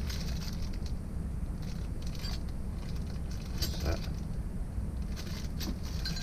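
Small metal fittings of a scooter mudguard fitting kit clinking and rattling as they are handled, with a few sharp clinks between about three and a half and four seconds in. A steady low hum runs underneath.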